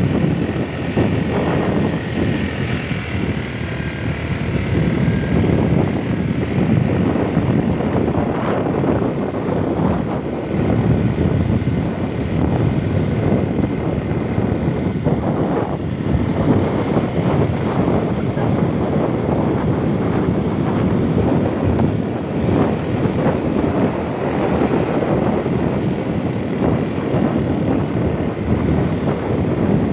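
A steady, loud rumble of a running vehicle mixed with wind buffeting the microphone, unbroken throughout.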